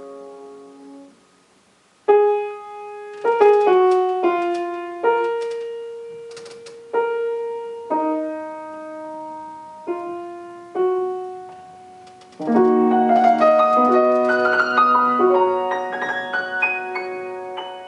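Solo piano playing classical music. A chord dies away, and after a brief pause single notes and short phrases sound with gaps between them. About twelve seconds in, the playing turns into a fuller, faster passage.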